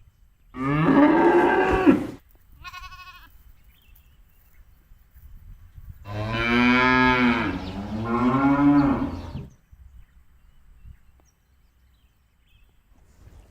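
Cows mooing: one call of about a second and a half shortly after the start, then a long moo in two parts from about six to nine and a half seconds in. A short, fainter, higher call sounds between them.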